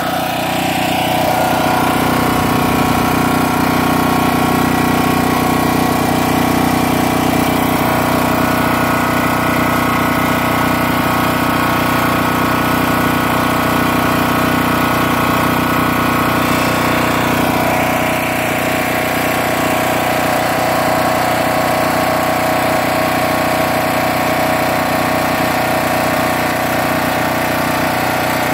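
Generator engine running steadily, with a slight change in its note about two-thirds of the way through.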